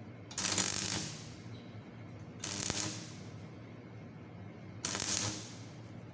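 Stick-welding arc struck three times in short bursts, each a crackling hiss that starts suddenly and dies away within about a second, roughly two and a half seconds apart.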